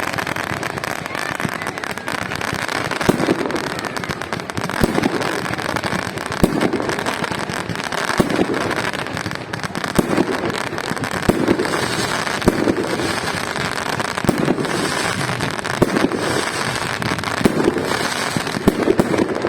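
Fireworks salute: a continuous run of bangs and crackling from aerial shells bursting, with booming swells every second or two.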